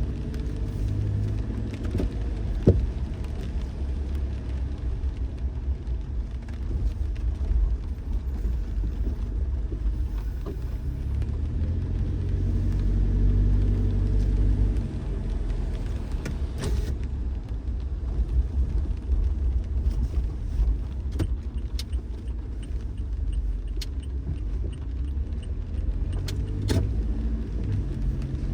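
A car driving, with a steady low rumble of road and engine noise whose engine tone rises and falls, and scattered sharp clicks and rattles.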